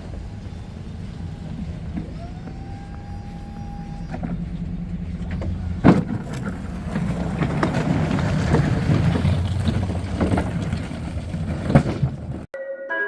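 Snow-plowing machine's engine running steadily. A whine rises and holds about two seconds in, and from about four seconds the sound grows louder and rushing, with two sharp knocks. The engine cuts off abruptly near the end and music begins.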